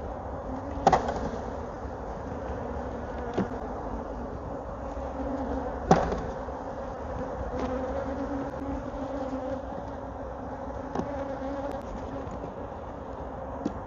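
Honeybees buzzing steadily around an open hive, with a handful of sharp knocks, the loudest about a second in and about six seconds in.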